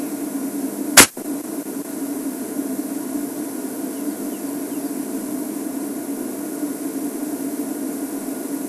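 Steady low hum of an idling game-drive vehicle engine, with one sharp click about a second in.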